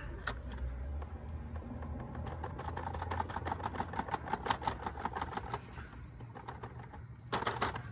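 Quick run of plastic clicks, several a second, from a Roomba's power button being pressed over and over. The robot vacuum does not start after being dropped.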